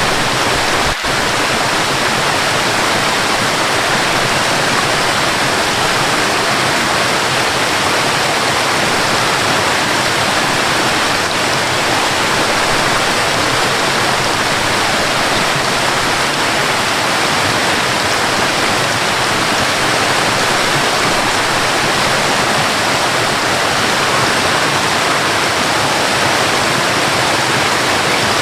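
Waterfall and rain: a steady, dense rush of falling water, with one brief dip in loudness about a second in.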